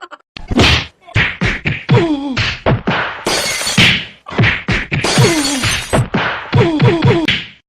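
A comedy meme sound effect: a rapid string of cartoon whacks and crashes, mixed with short tones that slide down in pitch, and two longer crashing, smashing stretches around the middle.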